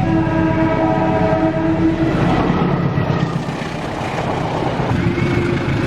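Diesel locomotive horn sounding a steady chord over the engine's low rumble for about two seconds, then sounding again near the end.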